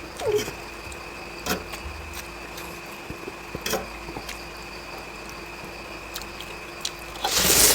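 Eating sounds over a steady background hum: scattered light clicks and small mouth noises, then a loud rush of noise near the end.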